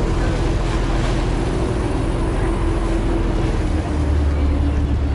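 Long-tail boat engine running steadily under way, a constant drone over a hiss; its low hum changes and grows stronger about four seconds in.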